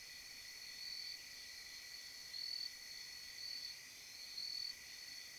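Night insects, chiefly crickets, trilling steadily in chorus, with a louder pulsed chirp standing out about once a second.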